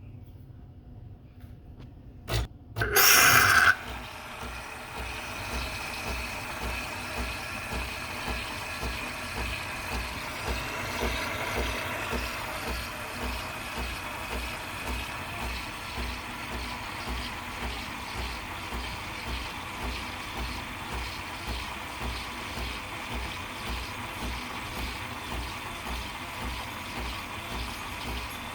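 DeLonghi Lattissima Nespresso machine frothing milk. A couple of clicks and a short loud burst come about three seconds in, then the machine's pump runs steadily with a pulsing low hum and a hiss of steam and milk.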